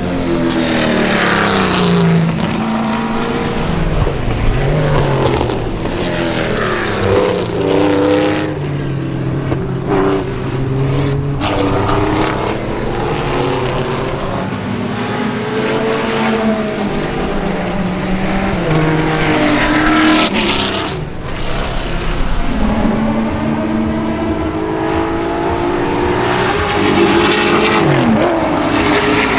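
Big-block V8 race car engine, the 1971 Pontiac Trans-Am's 8.1-litre Pontiac 496, running hard on track. The revs climb and fall again and again as it accelerates, shifts and lifts off.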